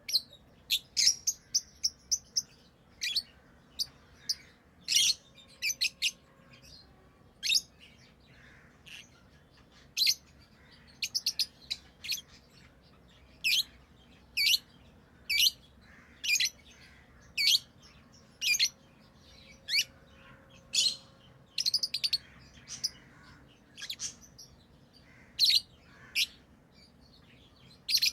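Pet lovebirds chirping: short, sharp, high-pitched chirps repeated about once a second, now and then in quick runs of several.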